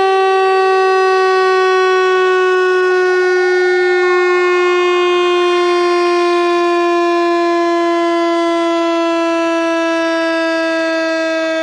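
Speaker-cleaner water-eject tone: a loud, buzzy electronic tone rich in overtones, gliding slowly down in pitch. It is played to vibrate a phone speaker's cone and push water out of it.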